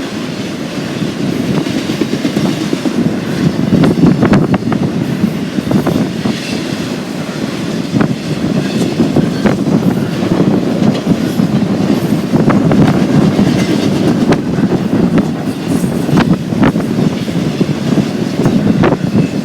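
Freight train cars rolling past at speed, a steady rumble with wheels clacking over the rail joints.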